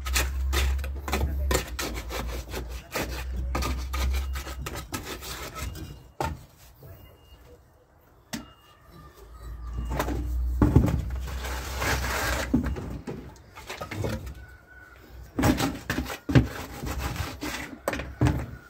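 Gravel and stones being scraped, shovelled and tipped into place: a dense run of clattering and scraping, a short lull, then a rushing pour and scattered knocks.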